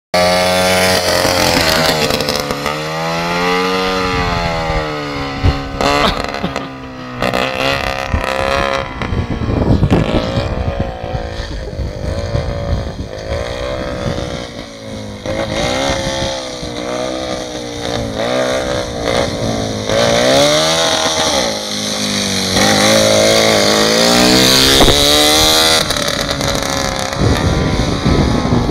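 Jawa 350 type 638 two-stroke twin-cylinder motorcycle engine in a homemade go-kart running hard, its pitch rising and falling again and again as the throttle is opened and closed.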